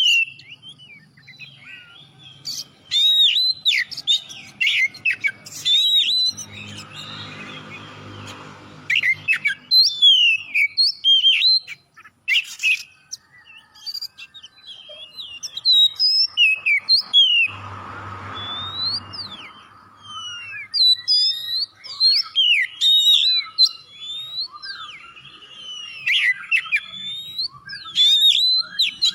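Oriental magpie-robin (kacer) in full song, a fast, varied run of loud whistles, sweeping notes and chirps, the kind of singing used as a masteran to spur other birds to sing. A lower hum comes in twice, about a third of the way through and again past the middle.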